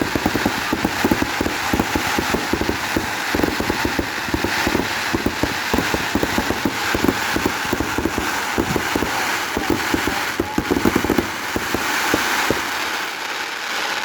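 Aerial fireworks crackling, a dense, rapid run of many small pops that thins out slightly near the end.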